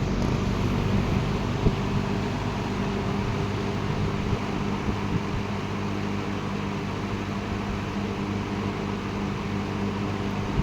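Late-1960s Eskimo all-metal box fan running steadily on high speed: a motor hum under a constant rush of air.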